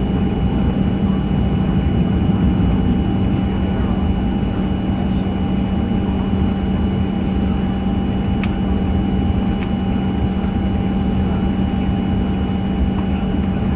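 Steady cabin noise inside a Boeing 737-900 with its CFM56-7B engines running at an even, low setting: a constant low hum with a few fixed tones over it, and a single click about eight seconds in.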